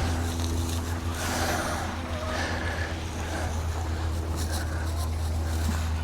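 A steady low mechanical hum, like a motor or engine running, with faint rustling over it.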